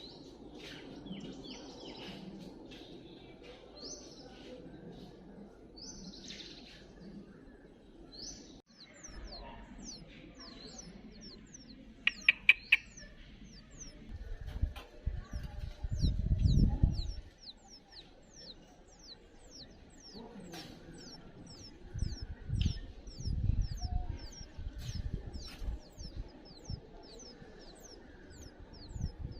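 Small birds chirping: short, high, falling chirps repeat about twice a second through most of the stretch. Low rumbles come in twice, the louder one about halfway through.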